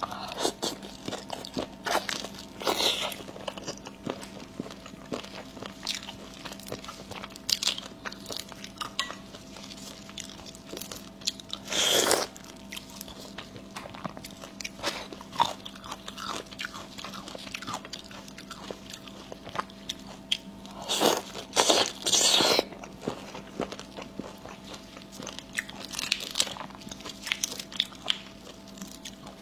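A person biting and chewing crunchy food close to the microphone: a run of small crunches and wet chewing clicks, with louder crunching bites about twelve seconds in and again around twenty-one to twenty-two seconds in, over a faint steady hum.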